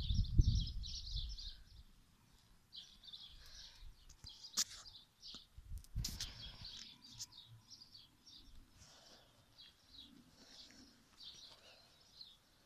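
Small birds chirping in quick, repeated short calls, with a low rumble of handling on the microphone in the first second or two and a couple of sharp clicks about halfway through.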